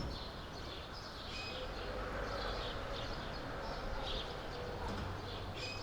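Birds chirping in short, repeated calls over a steady background hum of outdoor ambience.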